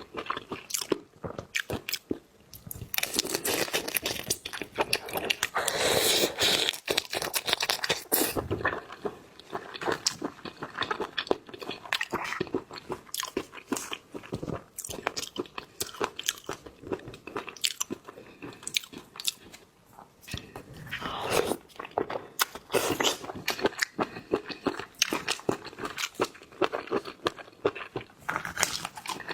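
Close-miked eating of seafood: a continuous run of crunching, biting and chewing with many small clicks. It grows louder for a few seconds about three seconds in, and again about twenty-one seconds in.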